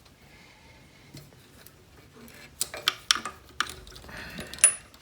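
Light metallic clicks and clatter from about halfway through, ending in a sharp click: a motorcycle battery lead being disconnected by hand and with small tools.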